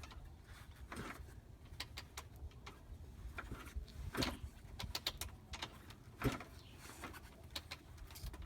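Kick-starter of a cold two-stroke dirt bike being kicked over a few times without the engine firing: a few separate mechanical knocks a couple of seconds apart, with no engine running.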